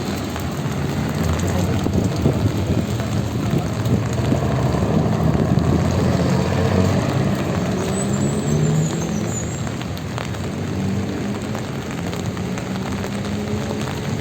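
Street traffic in the rain: motor vehicles running and passing on a wet city avenue, a steady low engine rumble under the even hiss of falling rain.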